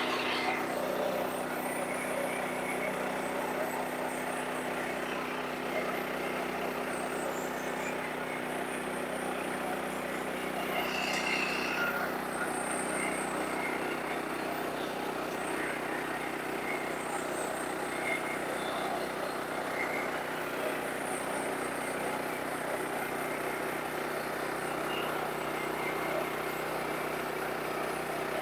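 Sawmill engine running steadily under a constant drone, with no break or change in speed.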